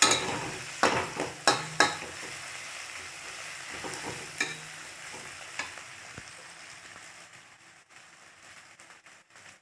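Chopped onion, garlic and green chillies sizzling in hot mustard oil in a kadhai while a spatula stirs them, knocking and scraping against the pan a few times in the first half. The sizzle fades toward the end.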